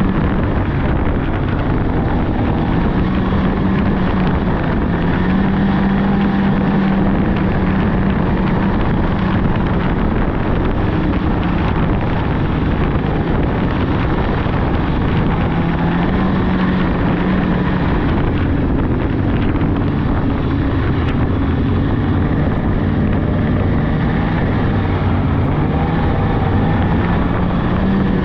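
Polaris 600cc snowmobile engine running steadily along a trail, its pitch rising and falling a little with the throttle, with wind buffeting the microphone.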